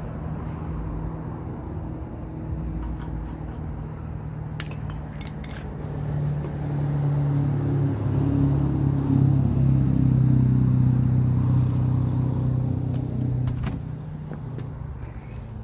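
Small engine of a walk-behind edger (a Murray of about 3.5 hp, by the owner's reckoning) running on a cold start helped by starter fluid. It picks up speed and gets louder about six seconds in, then drops back near the end, with a few light metallic clicks along the way.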